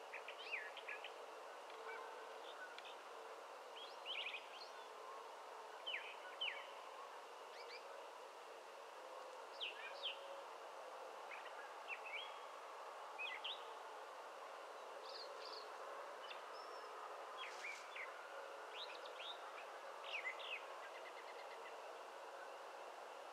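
Birds giving short, sharp chirps every second or two at dusk, over a steady faint background hum of the open countryside.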